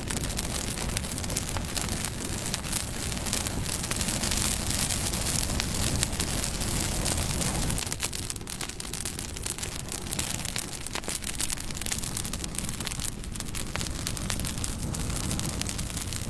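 Campfire burning, the wood crackling steadily with many small sharp pops over a low rush of flame.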